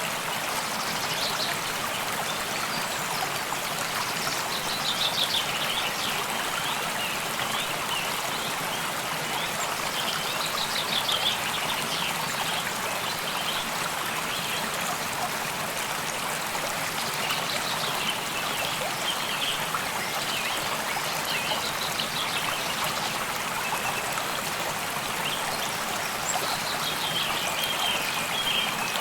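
A stream flowing and trickling steadily, with small birds singing short, high, fast trills every few seconds over it.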